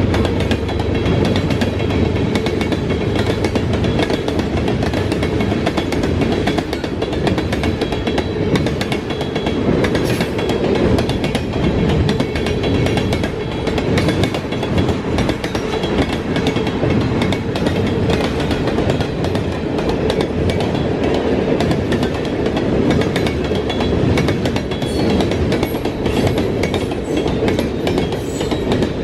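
Freight train cars rolling past at close range: a steady rumble of steel wheels on rail, with continual clicking and clanking as the wheels pass over rail joints.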